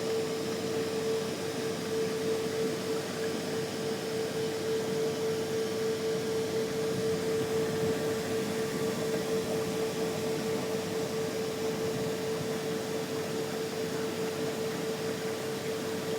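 The two electric blowers of a Jiffy boat lift running steadily, a constant hum over a rush of air, as they fill the lift's cells to raise the boat.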